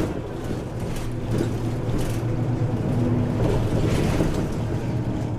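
Route bus driving, heard from inside the cabin: a steady low engine hum with road noise.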